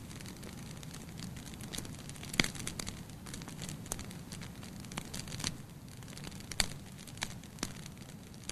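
Fireplace fire crackling, with irregular sharp pops over a steady low rumble of the flames. The loudest pops come about two and a half and six and a half seconds in.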